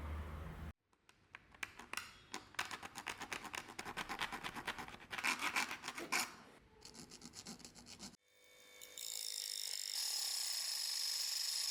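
Quick back-and-forth scraping strokes, several a second, of metal or horn being worked by hand with an abrasive, stopping about eight seconds in. A steady high hiss follows.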